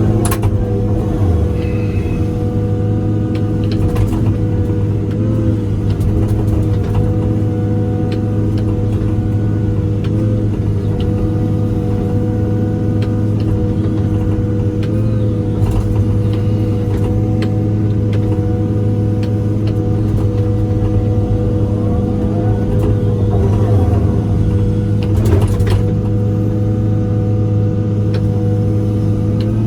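John Deere excavator's diesel engine idling steadily, left running to warm up after the machine has sat unused for a long time. A few sharp knocks or clicks sound over it.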